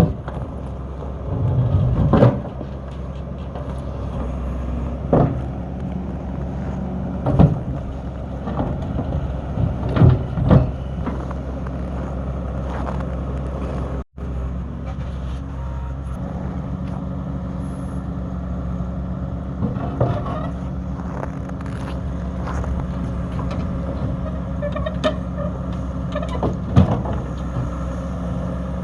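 Heavy diesel engine running steadily, with several sharp metallic clanks and knocks, most of them in the first half. The sound cuts out for an instant about halfway through.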